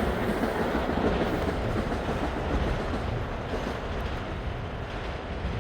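Long Island Rail Road train running on the rails with a clattering rumble that slowly fades.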